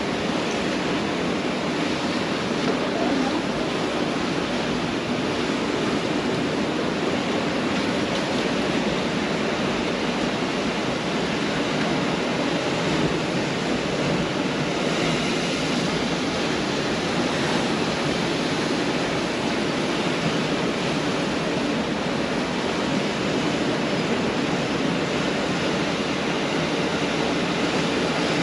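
Pacific Ocean surf washing onto a beach: a steady, even rush of waves, a little brighter and hissier about halfway through.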